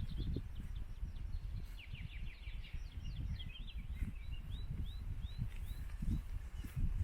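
A songbird singing: a quick run of notes about two seconds in, then a string of short arching notes, about three a second. Under it runs a steady, rough low noise.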